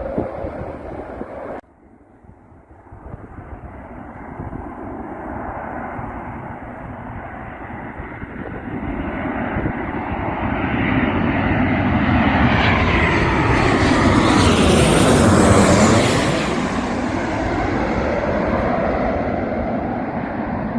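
Jet airliner's engines on landing approach, flying over low: a rushing roar builds steadily, peaks about three-quarters of the way through with a sweeping, phasing whoosh as it passes overhead, then fades.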